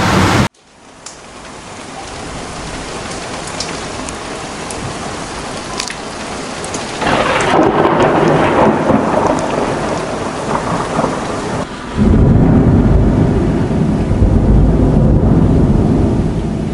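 Heavy rain falling during a thunderstorm, growing louder. About twelve seconds in, a loud, deep rumble of thunder starts suddenly and rolls on.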